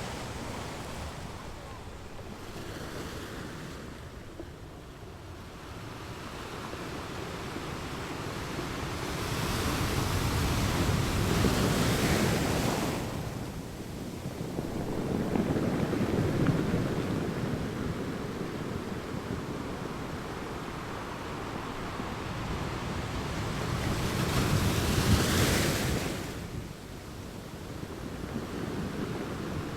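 Ocean waves breaking and washing onto a beach in slow surges, with the loudest breaks about twelve seconds in and again near the end.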